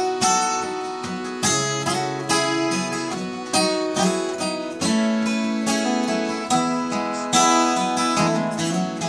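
Instrumental break of a live folk song: acoustic guitar strumming steadily, with accordion and fiddle playing held notes over it.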